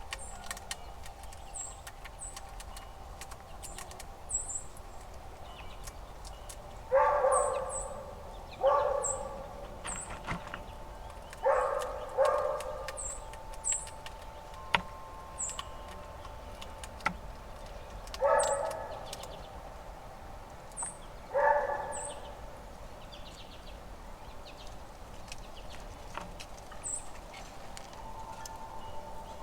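A dog barks six times, in short irregular groups, each bark trailing off with a little echo. Small birds chirp at a high pitch throughout.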